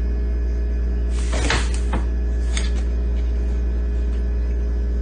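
A steady low hum runs throughout, with a few brief scuffing or knocking noises about a second and a half in and once more shortly after.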